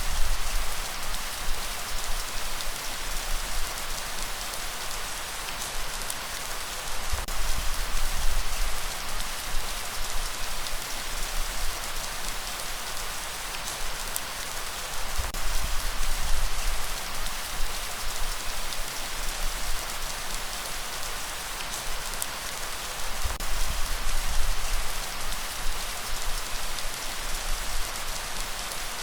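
Steady rainfall, a dense even hiss of drops hitting surfaces, with a low rumbling swell about every eight seconds.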